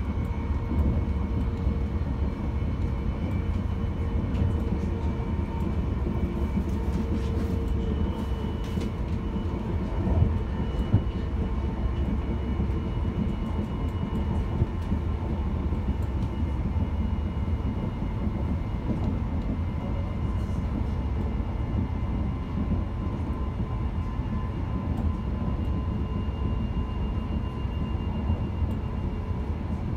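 Passenger train running at speed, heard from inside the carriage: a steady low rumble of wheels on rails with faint steady whining tones above it, and two sharper knocks about ten seconds in.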